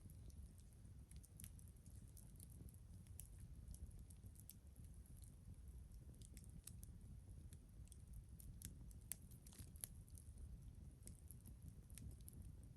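Wood campfire crackling quietly: scattered sharp snaps and pops at uneven intervals over a low rumble.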